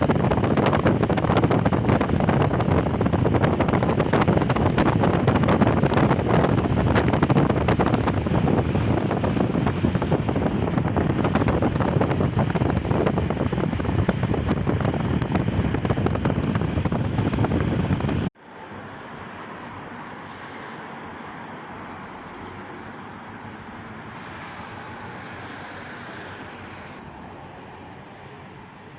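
Vehicle road noise with wind buffeting the microphone, loud and rushing; about 18 seconds in it cuts off abruptly to a much quieter, steady road noise.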